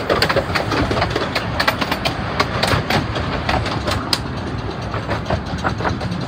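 Narrow-gauge railway coach running along the track: a steady rumble with a rapid clatter of wheels on the rails. The clatter is busiest for the first four seconds while another train's coaches pass close alongside, then thins out.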